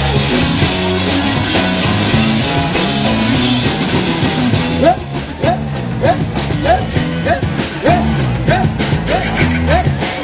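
Live rock band playing an instrumental passage with bass, guitar and drums; about five seconds in it drops into a sparser groove with steady drum strikes and a short rising note repeated about three times a second.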